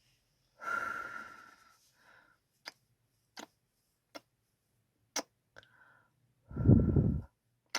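Kissing sounds close to the microphone: a string of short, sharp lip smacks with two longer, breathier kisses, about a second in and near the end, the later one the loudest.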